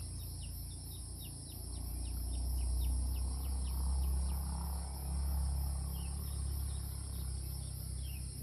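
Outdoor insect chorus: a steady, high-pitched buzzing with a fast, even pulse. A run of short falling chirps, about three a second, sounds over it for the first few seconds, and a low rumble swells up and fades in the middle.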